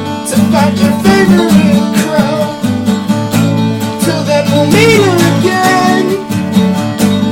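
Music: a strummed acoustic guitar with a sung melody line over it, part of an acoustic emo song.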